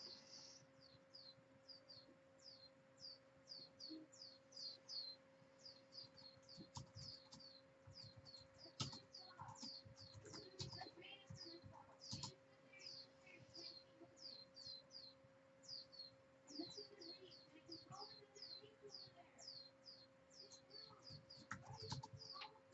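A small bird chirping faintly, quickly and repeatedly, short high chirps about two to three a second, over a steady low electrical hum, with a few soft knocks.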